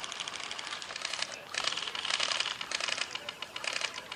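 Airsoft guns firing rapid bursts: a fast clatter of sharp clicks that comes in runs, heaviest around the middle.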